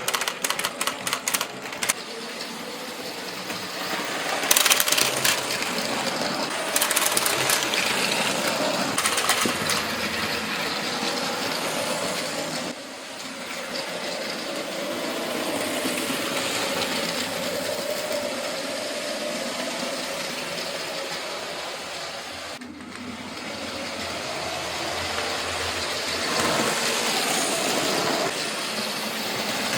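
Motorised LEGO train running on plastic track: a small electric motor's steady whine with rattling and clicking, quick clicks in the first couple of seconds, growing louder and softer by turns.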